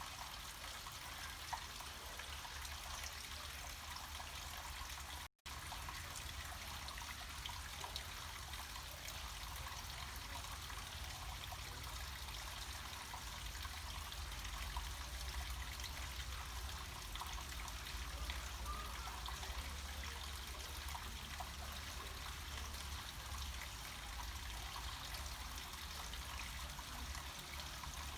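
Small stream of water trickling and flowing steadily down a mountainside, with a brief cut to silence about five seconds in.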